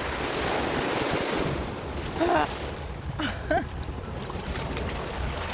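Ocean waves washing onto the beach, with wind buffeting the microphone as a steady low rumble. A couple of brief voice-like sounds come a little before and just after halfway.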